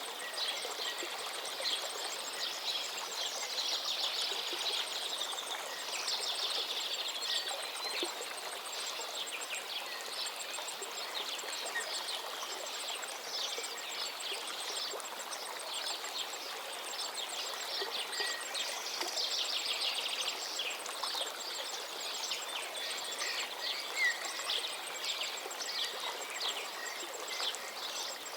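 Several songbirds singing without a break, with fast trills and chirps, over the steady rush of a gently flowing forest river.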